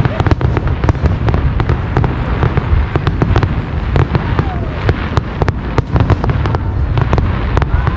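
Fireworks display: aerial shells bursting in quick succession, a dense string of sharp cracks and bangs, several a second, over a continuous deep rumble.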